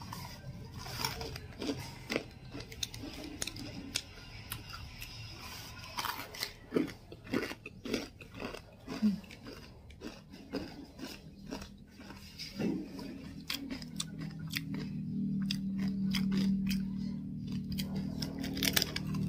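A person chewing crunchy food close to the microphone, with many short, sharp crunches. In the second half a steady low hum comes in and grows louder behind the chewing.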